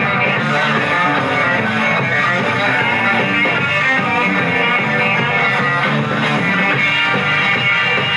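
Live rock band playing an instrumental break, with guitar out front over bass.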